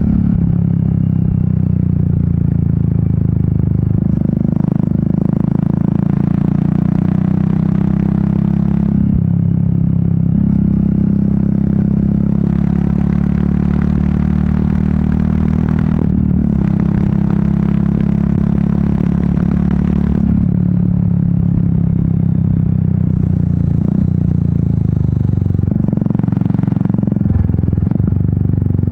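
Royal Enfield Meteor 350's single-cylinder engine and exhaust running steadily under way, its pitch shifting several times with throttle and gear changes. Wind noise rises and falls over it.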